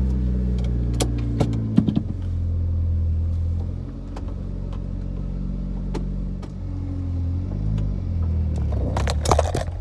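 Mitsubishi Lancer Evolution's turbocharged four-cylinder engine running as the car pulls away, heard from inside the cabin. Its pitch drops about four seconds in and wavers again near the end, with a few sharp clicks in the first two seconds.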